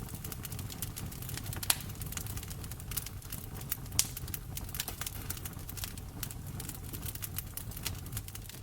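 Wood fire crackling in a fireplace: irregular snaps and clicks over a low rumble of the flames, with two louder pops about two and four seconds in.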